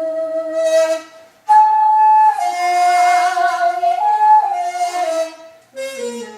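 Daegeum (Korean bamboo transverse flute) playing a slow melody of long held notes that slide and bend between pitches. The phrases are broken by short pauses for breath, about a second in and again near the end.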